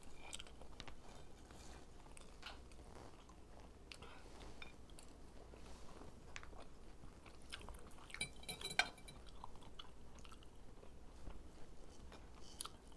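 Close-up chewing of fried chicken, with soft wet mouth clicks and light crunching. A brief cluster of sharper clicks comes about eight or nine seconds in.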